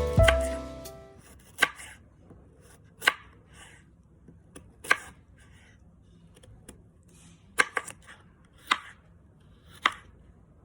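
A knife chopping food on a cutting board: about six sharp, irregular knocks on the board, with quieter slicing and scraping sounds between them.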